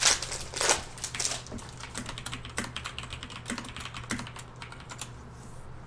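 Computer keyboard being typed on, quick runs of key clicks that thin out and stop near the end, over a steady low hum.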